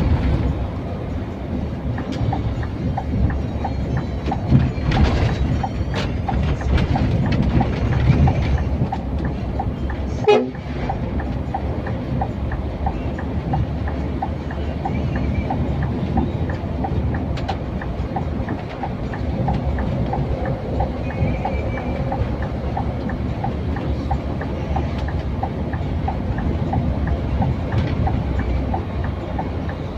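Scania K410iB coach under way: a steady low engine and road rumble with a regular light ticking running through it, and a short sharp noise about ten seconds in.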